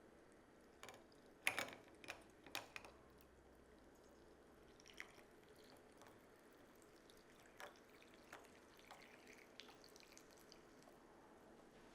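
Quiet kitchen handling sounds: a cluster of light clicks and taps in the first few seconds, then a few scattered ones over low room tone.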